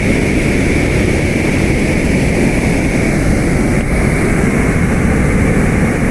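Steady, loud rush of river water, with wind buffeting the microphone.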